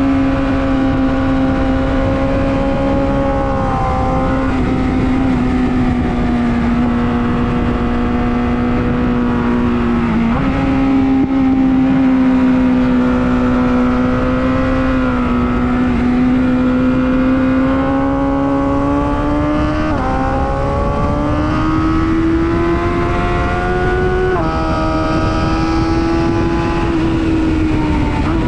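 Sport motorcycle engine running hard at high revs, with heavy wind noise. Its pitch holds high, slides gradually, and steps up or down several times at gear changes.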